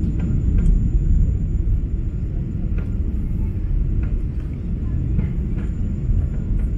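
Steady low cabin rumble of a Boeing 777-200 airliner in flight, engine and airflow noise heard from inside the passenger cabin, with a few faint clicks.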